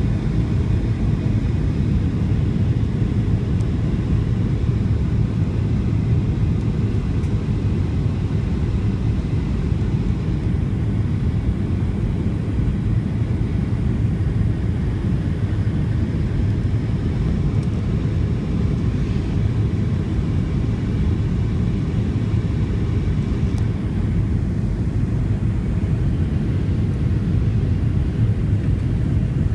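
Steady low rumble of a Boeing 737 in flight, heard from inside the passenger cabin: engine and airflow noise on the approach to landing.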